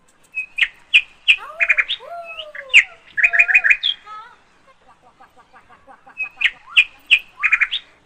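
Birds chirping and whistling in quick sharp chirps and rapid trills with sweeping whistled notes; the same phrase of calls comes twice.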